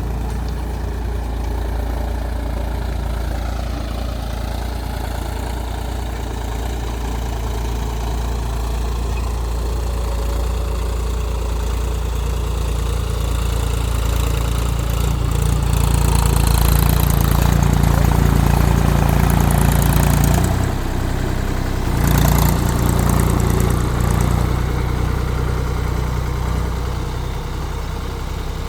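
Mahindra 275 DI TU tractor's three-cylinder diesel engine running steadily. It gets louder about halfway through and dips briefly a few seconds later.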